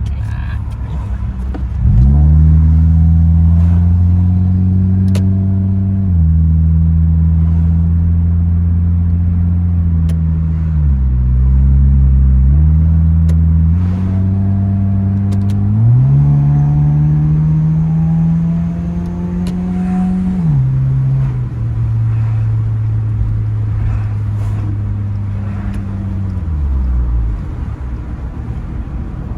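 Car engine and exhaust droning under way as the car is driven, the pitch climbing and then stepping down several times as the gears change, and dropping away near the end.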